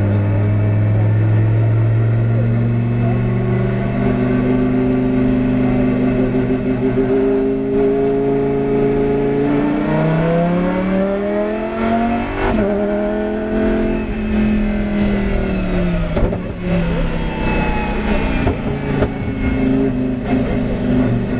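Lamborghini Huracán GT race car's 5.2-litre V10 running hard on track: the revs climb slowly for about ten seconds, rise steeply to a peak about twelve seconds in, fall away over the next few seconds, then build again near the end.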